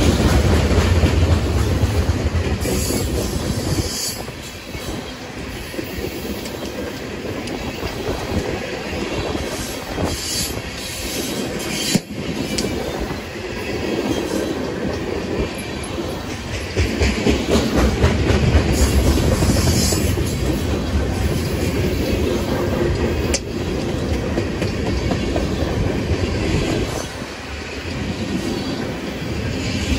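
Freight train of railroad tank cars rolling past at close range: a continuous rumble of steel wheels on rail with rhythmic clickety-clack over the joints, swelling and easing as the cars go by. Now and then a brief high-pitched wheel squeal rises above it.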